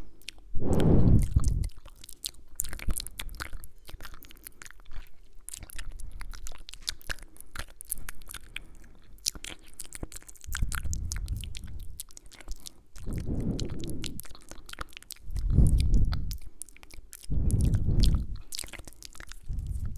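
Close-mic ASMR mouth sounds: a steady run of small wet clicks and kisses, with several dull low puffs of breath or whisper against the microphone, each about a second long.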